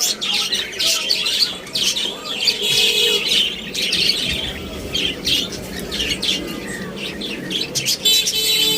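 Many small birds chirping and squawking together: a dense, overlapping chatter of short high calls.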